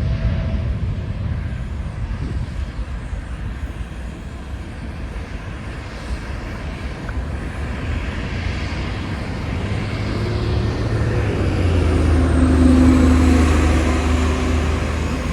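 Jet engine rumble from a Boeing 787 taking off, mixed with road traffic noise. The rumble eases over the first few seconds, then swells again in the second half with a low steady engine hum.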